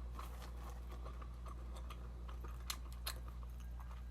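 A person chewing food close to the microphone: scattered small wet and crunchy clicks at an uneven pace, over a steady low hum.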